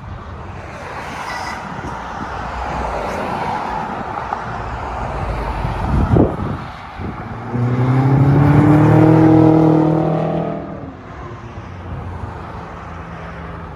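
BMW F10 M5 twin-turbo V8 running through a muffler-delete exhaust: engine and road noise build, with a single thump about six seconds in, then a steady droning engine tone for a few seconds before it eases off.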